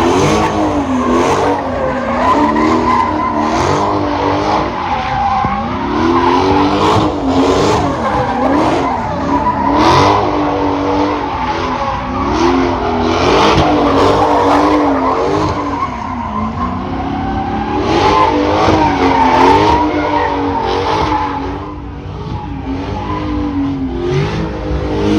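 A car doing donuts: its engine revs up and down over and over while the rear tyres squeal steadily against the pavement.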